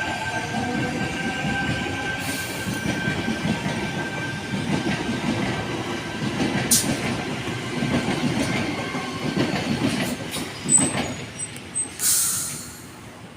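Waratah Series 2 electric train departing the platform: a steady rumble of wheels on rail with a thin, high, steady whine, dying away near the end. A knock and then a short hiss follow as it fades.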